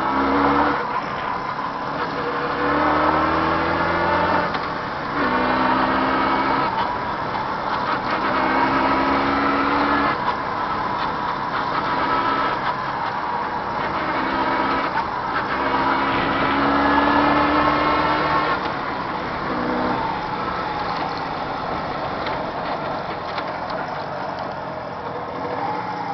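Jawa 638 two-stroke twin motorcycle engine, being run in, revving up repeatedly: its pitch climbs several times and drops back, then settles into a steadier run near the end.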